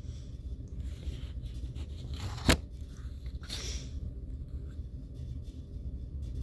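Paper handling, likely a manga page being turned, with one sharp click about two and a half seconds in and a brief rustle a second later, over a low steady hum.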